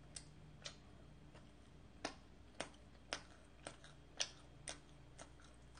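Someone chewing a mouthful of creamy pasta close to the microphone: soft, sharp mouth clicks, about two a second.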